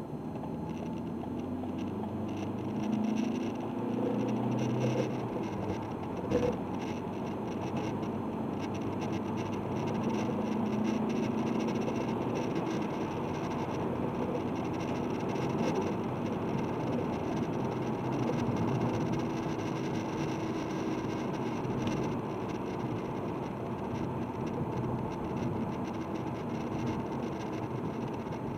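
Diesel car engine running steadily, its pitch shifting a little now and then.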